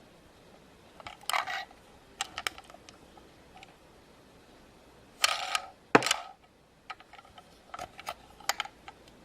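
Handling noise: scattered clicks, taps and short scrapes in a few clusters, with one sharp knock about six seconds in, as of packaged toys being picked up and set down.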